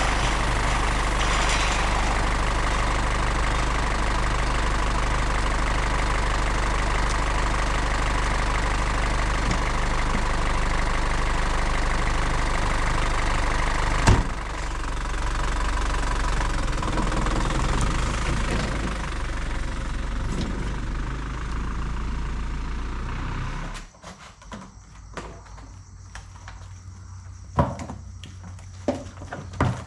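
Vehicle engine running steadily with a low rumble, with one sharp knock about halfway through. The engine sound stops suddenly near the end, leaving scattered light clicks and knocks.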